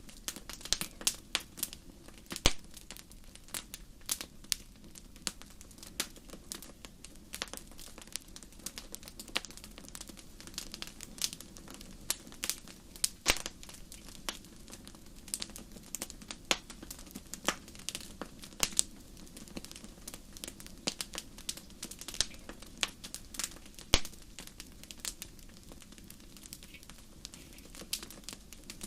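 Wood fire crackling, with irregular sharp pops and snaps, a few of them louder than the rest, over a low steady rush of burning.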